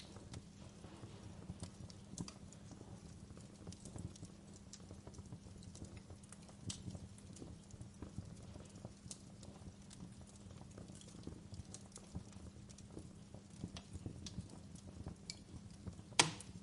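Log fire in a fireplace crackling, with irregular small snaps and pops over a low steady background. One much louder, sharp pop comes near the end.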